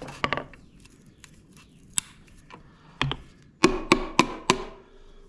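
Sharp metal taps and knocks from working a part into place during a Ford 8N tractor rebuild: a few single strikes, then a quick run of about four near the end.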